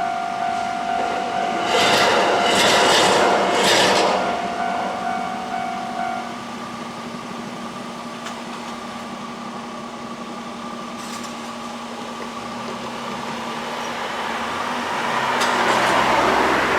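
A train passing over a railway level crossing, loudest between about two and four seconds in with a few sharp clacks. A steady tone stops about six seconds in, and a broad rumble swells again near the end.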